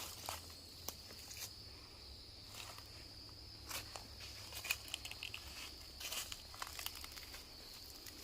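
Footsteps crunching irregularly on dry leaves and twigs of a forest floor, over a steady high-pitched insect buzz.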